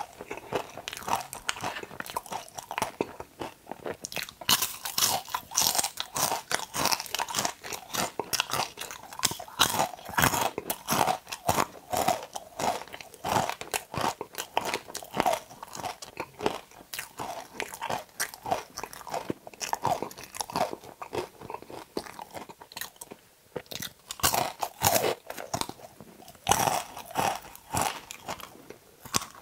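Okra being bitten and chewed close to a clip-on microphone: a dense run of crisp crunches and chewing, with a brief lull a little past two-thirds of the way through.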